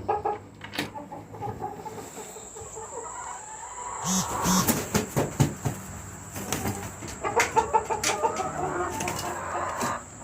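Chickens clucking in a coop, a rooster among them. The clucking is broken by two stretches of loud knocking and scuffling, about four seconds in and again about seven seconds in.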